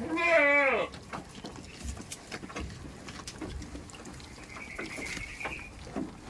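A goat bleating once at the start: a loud, wavering call about a second long that drops in pitch as it ends. A fainter thin, high, steady tone follows a few seconds later, with scattered small clicks and knocks.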